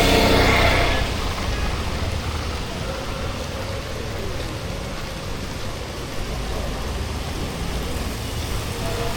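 Steady rain falling, an even hiss. A passing vehicle's engine is heard at first and fades away about a second in.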